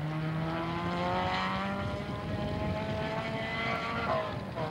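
Rally car engine running hard as the car accelerates along the gravel stage, its pitch climbing steadily, with a brief break about four seconds in.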